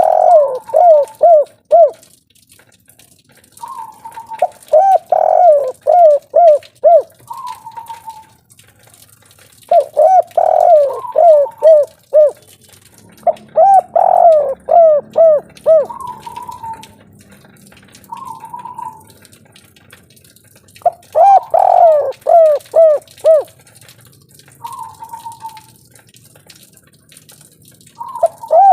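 Spotted dove (tekukur) singing the 'kuk 3' coo: bursts of quick, falling coos, repeated every five or six seconds, with single short higher notes in the gaps.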